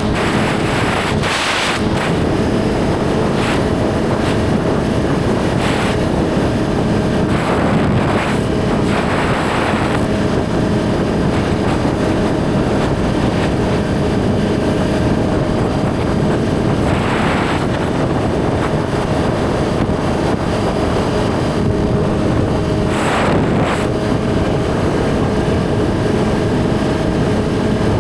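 Suzuki GSX-R1000 inline-four engine running at a steady cruising speed, heard from the rider's position with wind rushing over the microphone. Brief surges of rushing noise come a few times.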